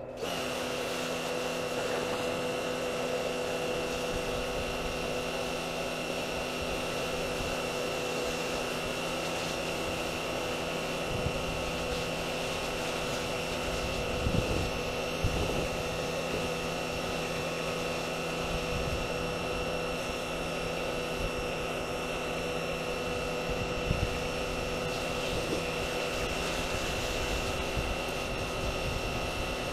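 A motor running steadily with a constant hum and whine, with a few brief knocks now and then.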